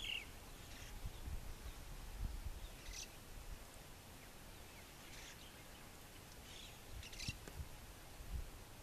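Faint open-air ambience with a handful of short, high bird chirps scattered through, over a low rumble.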